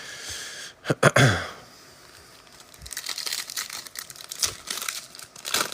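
Trading-card pack wrapper crinkling and tearing as the next pack is opened, with a short vocal sound about a second in.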